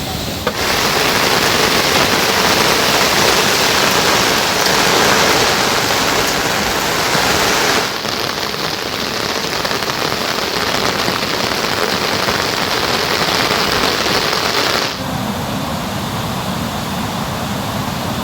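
Heavy rain falling, a dense steady hiss that shifts abruptly in loudness and tone three times: about half a second in, a little before the middle, and about four-fifths of the way through.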